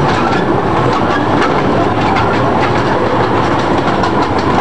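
Zoo train running along its track, heard from aboard: a steady loud rumble with the wheels clicking over rail joints now and then.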